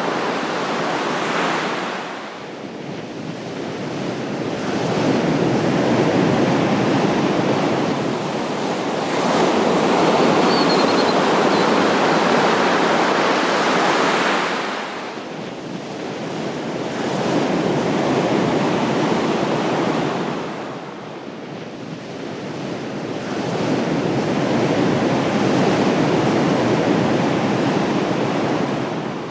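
Ocean waves surging in and washing back in slow swells: about four surges rise and fall over the stretch, each a loud rush that fades before the next comes in.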